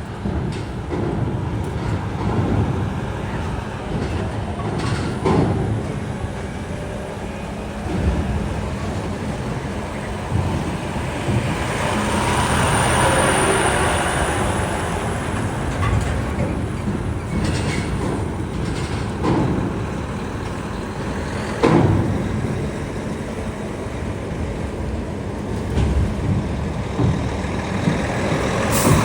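Heavy road vehicles such as trucks running and moving past, with several sharp clanks. The sound swells about twelve seconds in.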